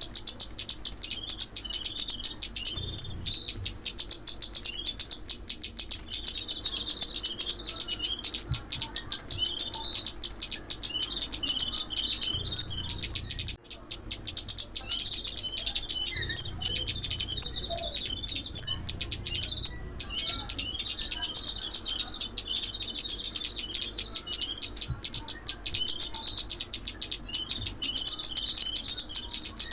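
Recorded crimson sunbird song used as a trapping lure: rapid, high-pitched twittering chips run on in long phrases, with brief pauses about 13 and 19 seconds in. A thin, steady high whine sits under the first two-thirds.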